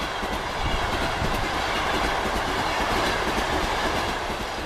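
Train going by on the rails: a dense rumble and rush of noise that swells in the middle and eases off near the end.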